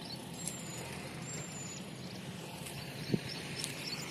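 Heavy vehicle's diesel engine running steadily, with a few faint high chirps in the first half and a single short click about three seconds in.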